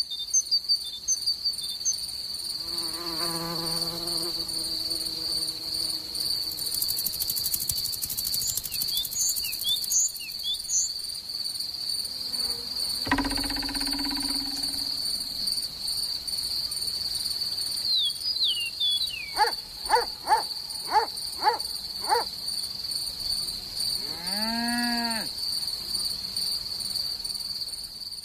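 Steady high insect trill, like a cricket, with a few short bird chirps and several cartoon insect calls laid over it: a falling call, a sudden louder sound, a quick run of six sharp squeaks, and one rising-and-falling call.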